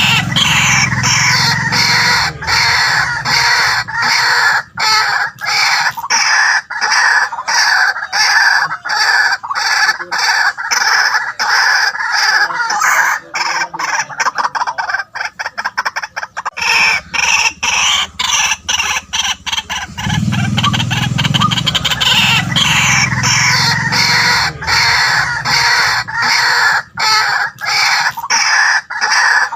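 White-breasted waterhen calling: a loud, unbroken stream of rapid, harsh, repeated croaking notes, thinning briefly about halfway through before picking up again.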